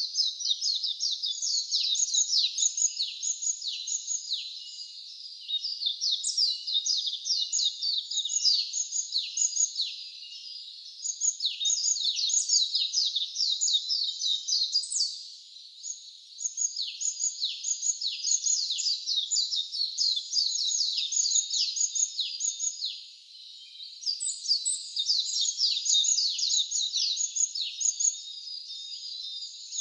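Wild songbirds chirping in a dense run of quick, high, falling notes, with short breaks about ten, sixteen and twenty-three seconds in.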